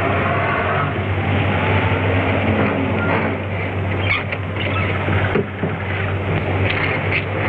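Old car engine running steadily under heavy soundtrack hiss, with a few short knocks about four to five seconds in and again near the end.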